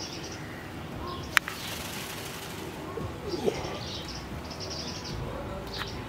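Birds chirping in the background, short high calls coming and going, with one sharp click about a second and a half in.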